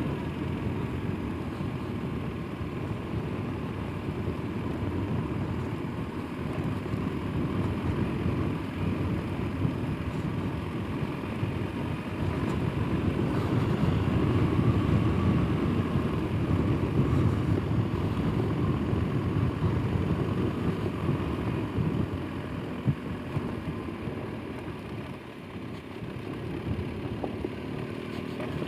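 Motorcycle engine running while riding slowly over a rough road, a steady low rumble that grows louder through the middle and eases off near the end.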